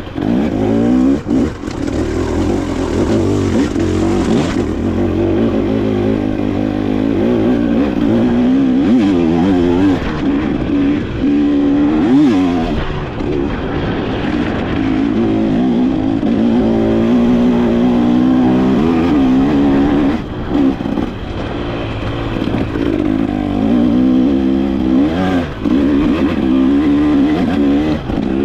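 Dirt bike engine revving up and down as it is ridden off-road, its pitch rising and falling constantly, with a few short knocks.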